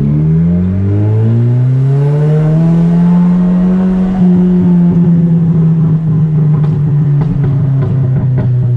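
Straight-piped Nissan Silvia S15's turbocharged SR20DET four-cylinder accelerating hard in first gear, its pitch rising for about three seconds. Then the throttle lifts and the revs fall slowly while the exhaust pops and crackles on the overrun.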